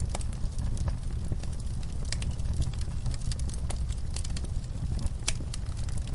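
Wood fire crackling, with sharp irregular pops and snaps over a steady low rumble of the burning.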